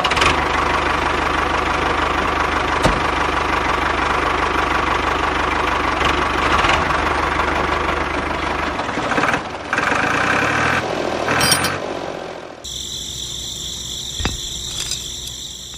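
Small motor of a homemade toy tractor running steadily under load, with a change in the sound about nine seconds in and a different, quieter sound with steady high tones near the end.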